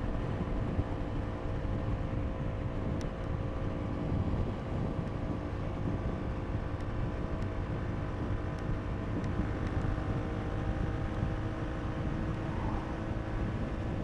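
KTM RC390 single-cylinder engine running at a steady cruise, its pitch holding constant, with wind rumbling on the helmet microphone.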